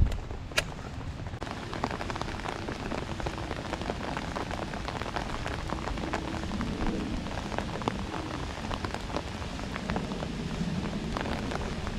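Steady rain falling on a lake surface, a dense patter of drops. A single sharp click sounds about half a second in.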